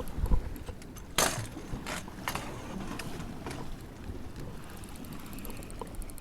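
Wind rumbling on the microphone, with a few sharp clicks or knocks, the loudest about a second in.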